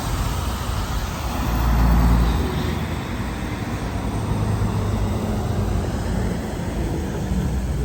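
Road traffic passing, with a low engine rumble that swells about two seconds in, then eases to a steadier drone.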